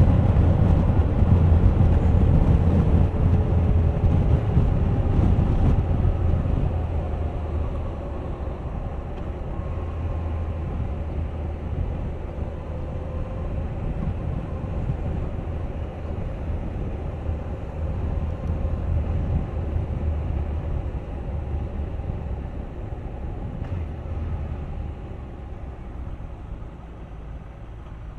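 Suzuki GSX1250FA's inline-four engine and wind rush while riding, heard from a bike-mounted camera. The engine note falls early on, and the sound grows steadily quieter through the second half as the bike eases off.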